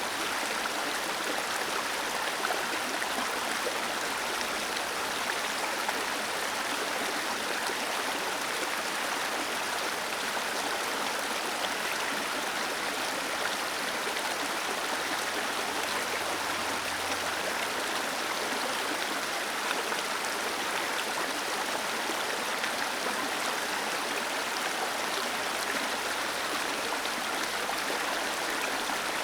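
Small waterfall cascading steadily over rocks into a stream: a continuous, even rush of falling water.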